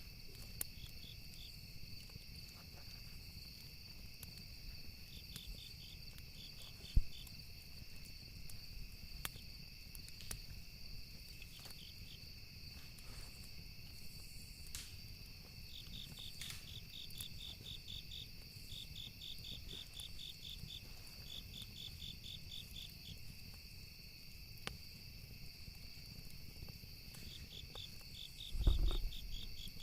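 Campfire ambience: crickets chirping in repeated pulsed trains over a steady insect drone, with scattered crackles of burning wood and a low rumble. A single low thump comes near the end.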